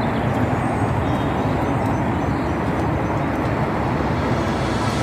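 Magic Mobility Extreme X8 eight-wheel all-terrain powerchair driving along a boardwalk: a steady run of motor and tyre noise.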